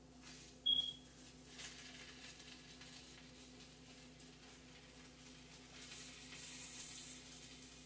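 Egg and rice frying in a wok: faint sizzling while a utensil stirs and scrapes the pan. A short, sharp high squeak about a second in, and the sizzle swells a little near the end.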